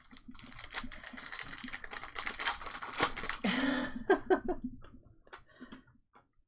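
A trading card pack wrapper crackling and rustling as it is torn open, dense for about four seconds. It is followed by a few light clicks of cards being handled.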